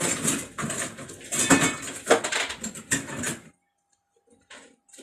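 Electronic circuit boards and parts being handled and shuffled, a dense clatter of knocks and rattles that stops about three and a half seconds in, followed by a few quieter knocks near the end.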